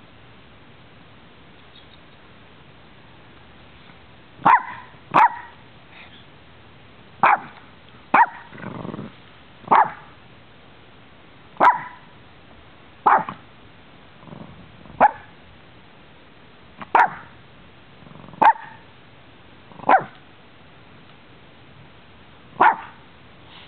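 A dog barking in about a dozen single sharp barks, one every second or two, starting about four seconds in, with a few quieter, lower sounds between the barks.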